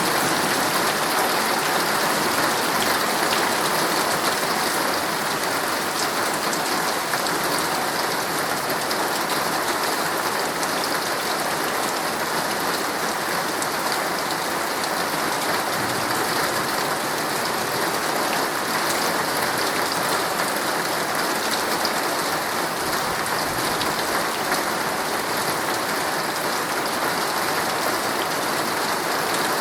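Heavy rain drumming steadily on a tent's fabric, a dense even hiss with scattered drop ticks.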